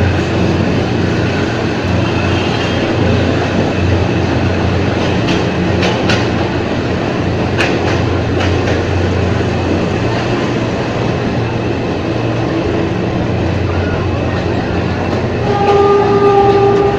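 Ex-JR 203 series electric multiple unit running on rail: a steady rumble and hum with a few sharp clicks of the wheels over rail joints. A horn sounds near the end and carries on.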